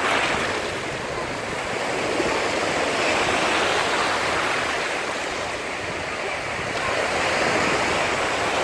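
Mediterranean sea waves washing onto the beach, a steady rush of surf that swells and eases twice.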